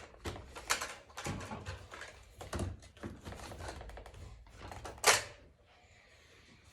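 Irregular clicks, taps and rustling from handling the packaging of a boxed RC monster truck, with one sharper, louder snap about five seconds in.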